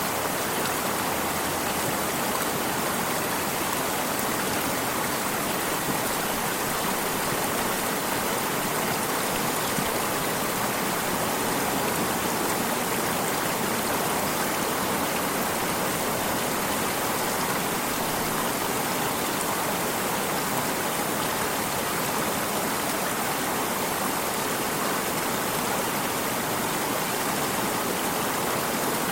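Stream water running steadily, a continuous even rushing with no breaks or changes.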